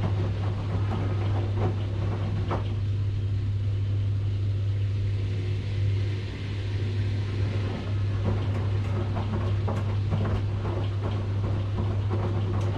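Washing machine running: a steady low hum with scattered clicks and knocks from the tumbling drum. The higher, busier sounds ease off for a few seconds in the middle and then pick up again.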